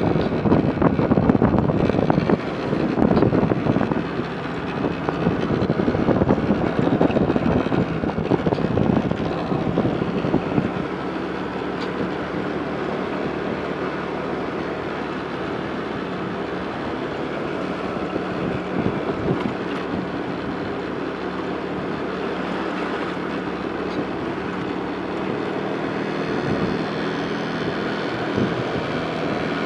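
A road vehicle running along at speed. Wind buffets the microphone in loud gusts for about the first ten seconds, then gives way to a steadier engine drone.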